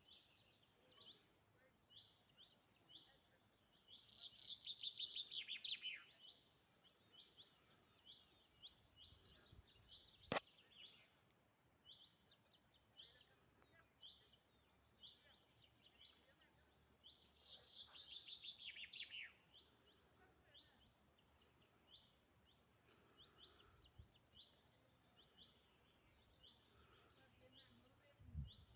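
Wild songbirds calling: a steady string of short, high chirps repeated about once a second, broken twice by a louder rapid trill, about two seconds long, that falls in pitch. One sharp click stands out a third of the way through.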